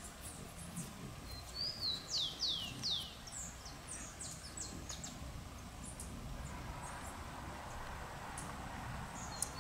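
Wild songbird singing: a short note followed by three quick falling whistles, then scattered short chirps, with the phrase starting again near the end, over steady background noise.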